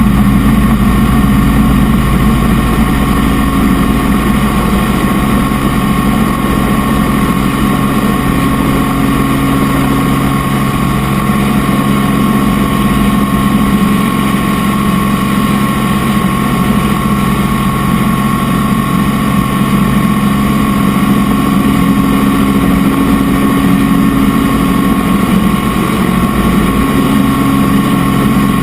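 Helicopter in steady flight: a constant engine and rotor drone with a steady higher whine, unchanging throughout.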